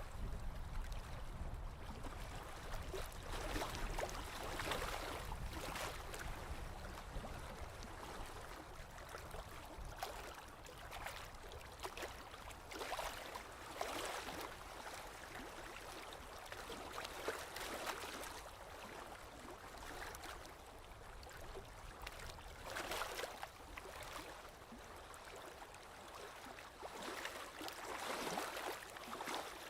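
Small lake waves lapping on the shore, soft swells of splashing hiss arriving every couple of seconds.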